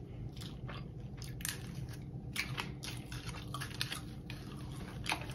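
Chewing of fried hot Cheetos-crusted seafood: a run of short crunching clicks.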